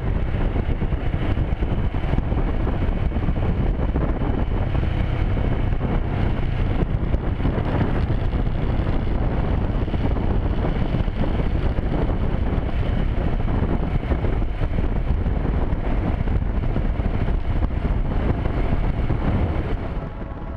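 Motorcycle on the move, its engine running steadily under heavy wind noise on the microphone.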